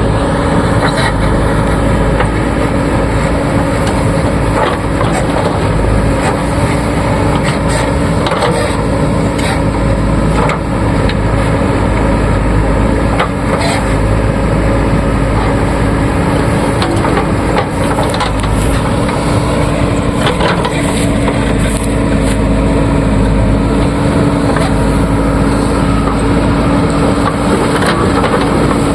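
JCB 3DX backhoe loader's diesel engine running steadily under load, with scattered clattering knocks of earth being handled.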